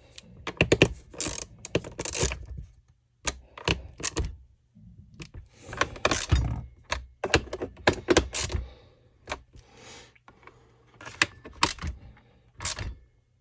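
Irregular clicks, knocks and clattering of small tools and parts being handled on a workbench.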